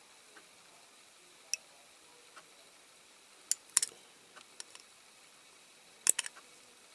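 Scattered sharp clicks and taps of small diecast toy parts being handled and eased into place, with a quick cluster of clicks near the middle and another about six seconds in.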